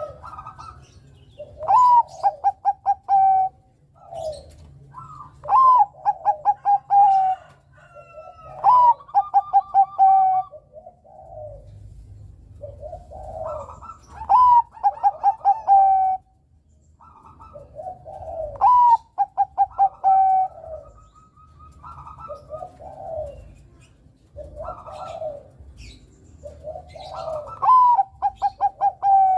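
Bangkok-type zebra dove (perkutut) singing its cooing song: about six loud phrases, each a rising-and-falling opening note followed by a quick run of short staccato coos, with softer coos between the phrases.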